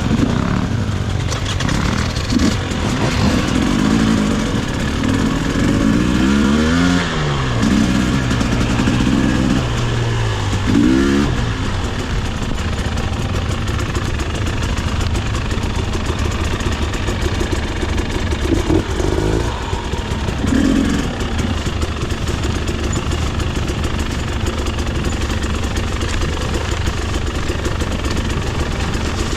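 300cc two-stroke enduro dirt bike engines running on the trail, revving up and down several times as the throttle is worked, with the sharpest rise and fall about a quarter of the way in.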